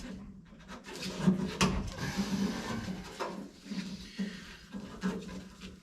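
Hands handling a work light and metal parts at a car door: scattered light clicks, taps and rubbing, with a sharper knock about a second and a half in.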